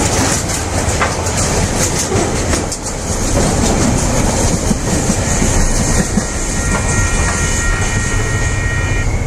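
Container freight train rolling past, its wagons' wheels clicking over the rail joints over a steady rumble. A thin, high, steady squeal from the wheels joins over the last few seconds.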